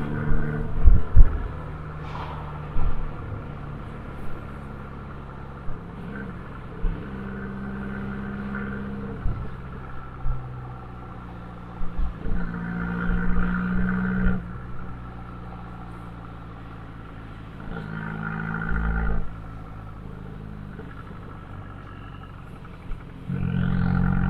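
Abarth 595C's turbocharged 1.4-litre four-cylinder through an Akrapovic exhaust, accelerating in repeated surges a few seconds apart and easing off between them. A cluster of sharp pops comes in the first two seconds.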